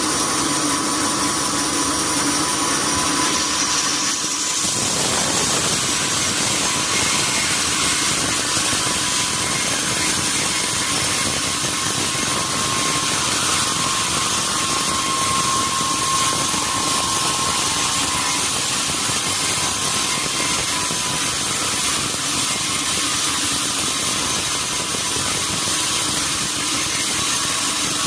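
Sawmill saw running through a durian log with a steady, loud mechanical noise; the sound changes about four seconds in and grows fuller and denser.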